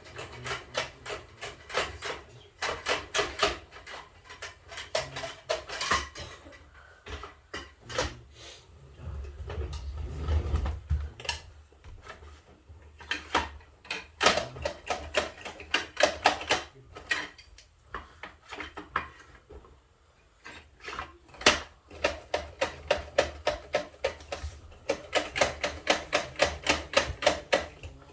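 Bruder toy garbage trucks being played with: hard plastic parts clicking and clacking in quick runs of about five clicks a second, with pauses between, and a low rumble about ten seconds in.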